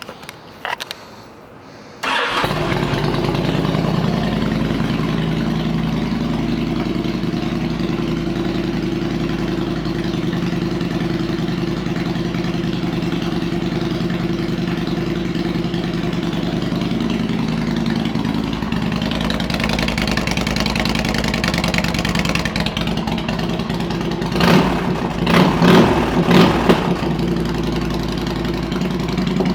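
A 2007 Honda VTX1300C's V-twin engine starting about two seconds in, then idling steadily, with a few quick throttle blips near the end.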